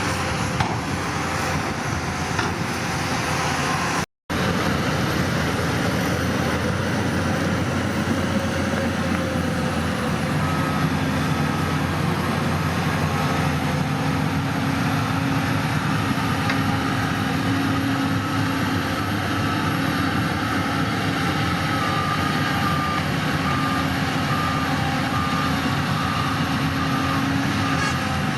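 Heavy diesel earthmoving machinery running steadily under load, with a reversing alarm beeping in the second half. The sound cuts out for a moment about four seconds in.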